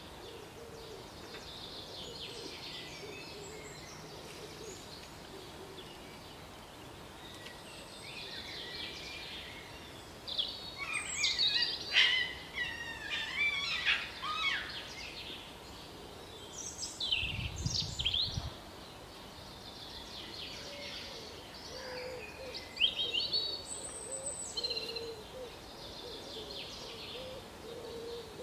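Several wild birds singing and chirping, with busy stretches of rapid song about ten seconds in, again around seventeen seconds and around twenty-three seconds. A brief low rumble comes around seventeen seconds.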